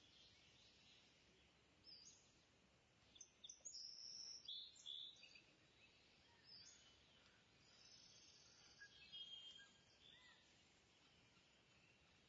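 Near silence: a low steady hiss with faint, scattered high bird chirps, busiest in the middle.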